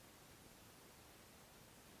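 Near silence: a faint, even hiss with no distinct sounds.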